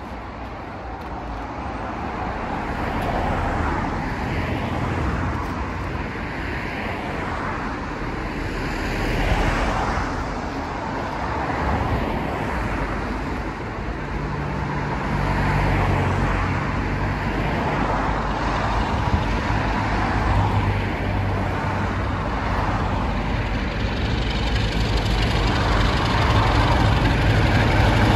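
A diesel-hauled train approaching along the track, getting steadily louder; a low engine drone from the leading diesel locomotive comes in about halfway through and is strongest as it nears the end.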